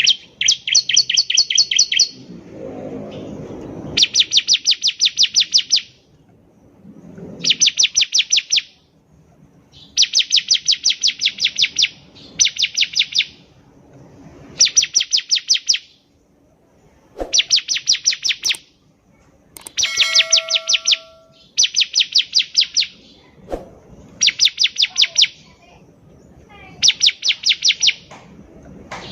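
Bar-winged prinia (ciblek) singing: repeated bursts of rapid, high chipping notes, each burst lasting one to two seconds, with short pauses between them.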